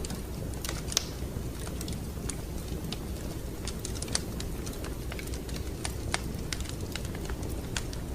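Wood fire crackling in a fireplace: a steady low rumble of flame under frequent sharp pops and snaps, the loudest pop about a second in.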